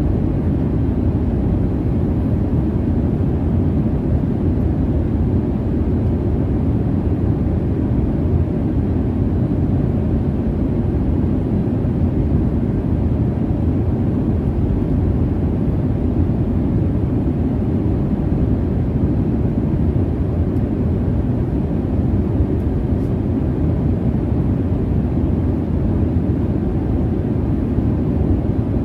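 Jet airliner cabin noise in flight: a steady, low rumbling roar of engines and airflow, unchanging throughout.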